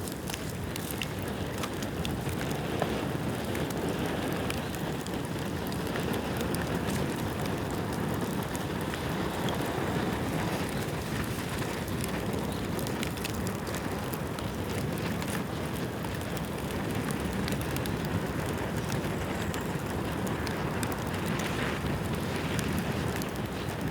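Bamboo bonfire burning steadily: a continuous low rush of flame with many small crackles and sharp snaps throughout.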